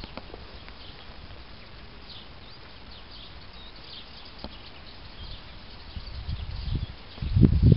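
Birds chirping faintly over a low outdoor background; near the end a loud low rumbling with thumps sets in.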